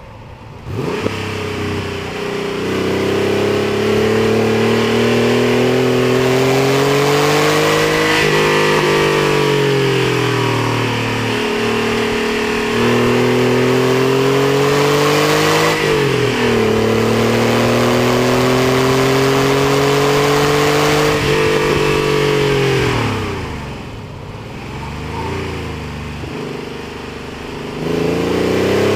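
Porsche 964's air-cooled flat-six at full throttle on track, revs climbing through the gears with two sharp drops in pitch at upshifts about a quarter and half way through. It then lifts off, engine speed falling, with a short blip of revs, and pulls again near the end.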